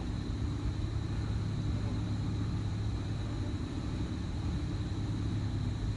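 Steady low rumble of outdoor background noise with a faint, steady high-pitched tone over it.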